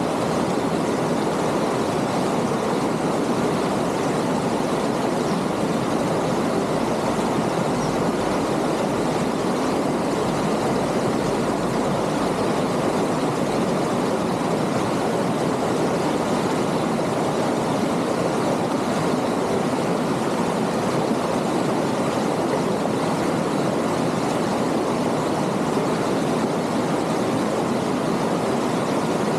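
Small rocky stream flowing over stones: a steady rushing of water.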